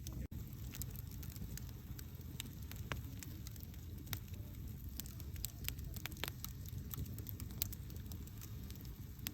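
Wood campfire burning: a steady low rumble of flames with irregular sharp crackles and pops from the burning wood. There is a split-second gap in the sound just after the start.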